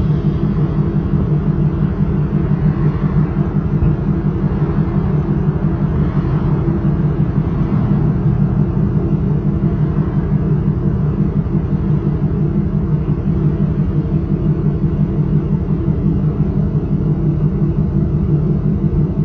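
1995 Chevrolet Camaro Z28's LT1 V8 idling steadily through a Flowmaster exhaust, a loud, even low rumble.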